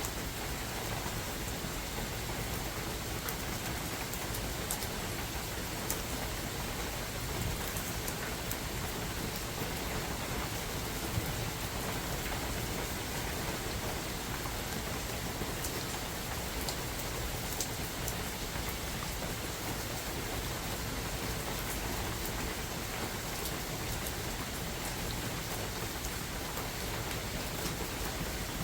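Steady rain falling in a forest: an even hiss of rainfall with scattered sharper drip ticks.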